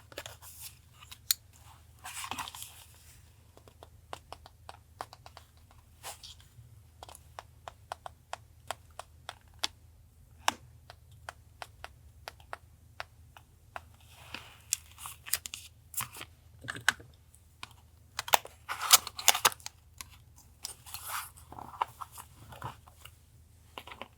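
Paper being handled up close for a collage journal page: sheets rustling and tearing in short bursts, with many small clicks and taps in between.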